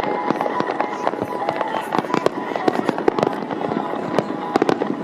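Aerial fireworks bursting in a dense, rapid run of bangs and crackles.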